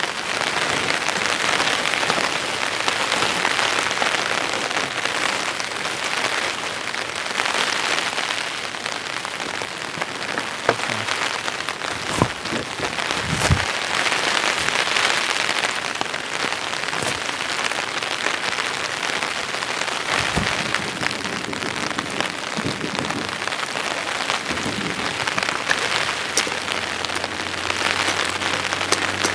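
Steady heavy rain falling on leaves and surfaces, with scattered sharp drop ticks and a few brief dull knocks.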